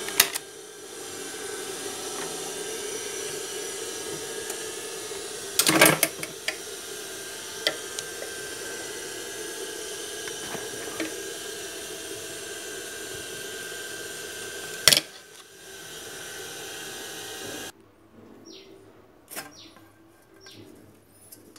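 Electric clutch motor of a JUKI industrial sewing machine running with a steady hum, a few sharp knocks and clicks over it; the hum cuts off abruptly near the end. The motor runs without fault; the fault lies in its condenser (start capacitor).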